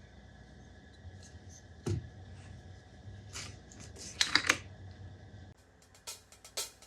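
Scattered light clicks and taps of small parts being handled and fitted together on a workbench, with one duller knock about two seconds in and a quick run of sharper clicks a little after the middle, over a low steady hum.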